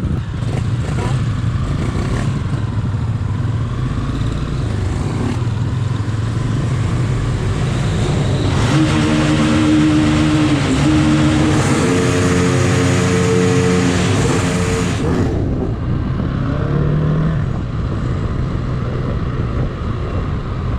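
Motorcycle engines rumbling, then a loud run at full throttle for about six seconds from around the middle, its pitch stepping up through gear changes before it cuts off suddenly.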